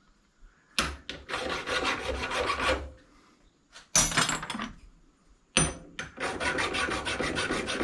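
Metal tool scraping the surface of a brass fitting to scratch through to bare metal, in three bouts of rasping strokes: two of about two seconds and a short one between. This is the scratch test that shows whether the brass is clean.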